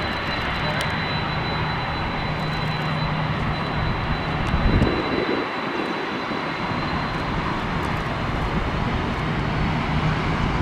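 Jet airliner taking off, its engines running at full thrust: a loud, steady roar with a steady high whine. There is a short louder burst about five seconds in.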